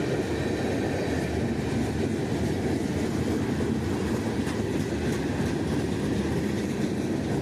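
CN eastbound freight train's cars rolling past on the rails, a steady rumble.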